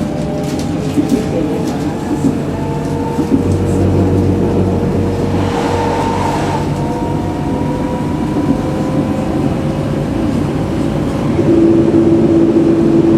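Tram running along the line: the electric traction motors whine in several steady tones that slowly shift in pitch, over the rumble of the wheels on the rails. A strong steady tone comes in near the end.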